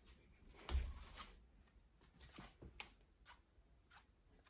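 Faint, irregular light clicks and taps of a penny being tapped and handled, with a soft thump about three-quarters of a second in.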